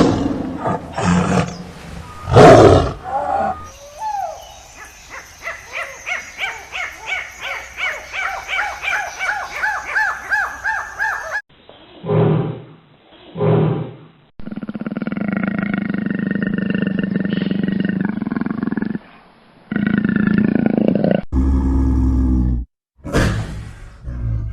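Calls of several different wild animals cut one after another, starting with loud roars, then a rhythmic run of short pitched calls, a long steady call, and more short loud calls near the end.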